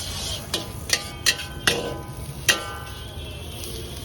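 A metal utensil striking a metal pan or vessel: several sharp clinks over the first two and a half seconds, each leaving a short ringing tone, over a steady low hum.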